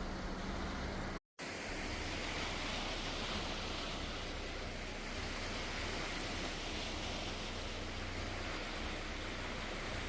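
Steady rushing noise of wind and water. In the first second a low engine hum sits under it, then the sound cuts out briefly and the rushing noise carries on alone.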